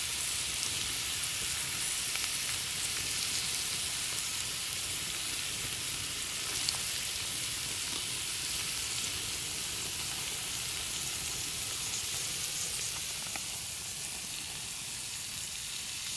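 Chopped onions frying in sunflower oil in a pan over a log fire: a steady sizzle with a few faint pops.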